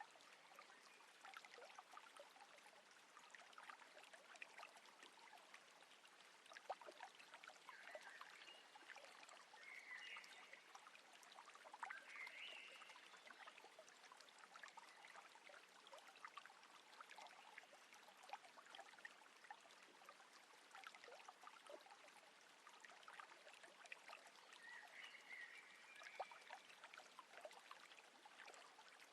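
Faint water lapping and trickling, with many small ticking splashes. A few brief chirping calls come about a third of the way in and again near the end.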